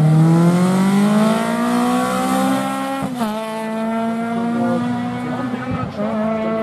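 Rally car engine under hard acceleration, its pitch climbing for about three seconds, then dropping sharply at a gear change and holding steady, high revs.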